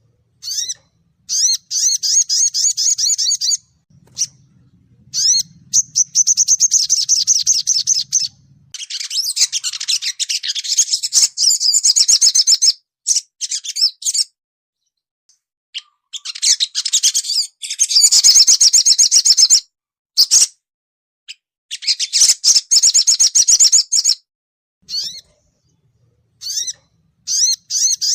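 Sogon songbird twittering in rapid, high chirping bursts (a fast 'cuit cuit crett' chatter), each burst lasting a second to a few seconds with short pauses between.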